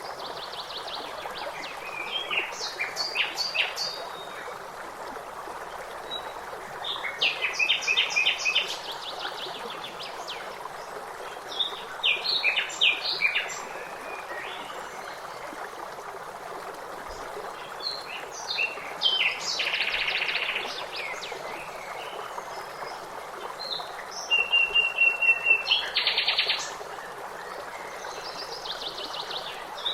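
Songbirds singing in short, separate bouts of rapid chirps and trills over a steady rush of flowing stream water.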